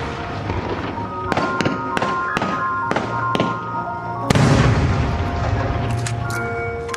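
Aerial fireworks shells bursting in a display set to music: a run of sharp cracks, then one big boom about four seconds in that fades away slowly.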